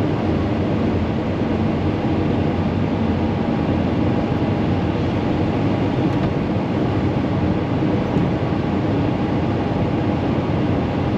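Steady road and engine noise inside the cab of a Volkswagen Vanagon driving uphill. The engine is in its 'Vanagon syndrome' fault, which the owner puts down to not firing on all four cylinders and suspects is something electrical getting wet.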